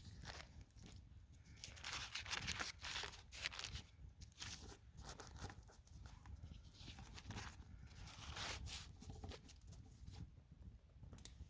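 Irregular rustling, crinkling and scraping handling noises, loudest a couple of seconds in.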